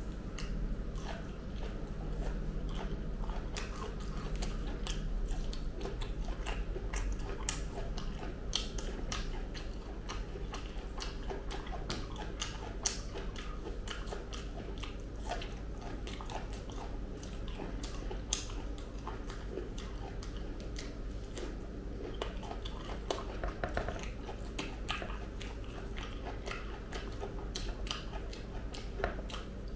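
Close-miked chewing and biting of ripe jackfruit flesh: wet mouth clicks and smacks at irregular intervals, several a second.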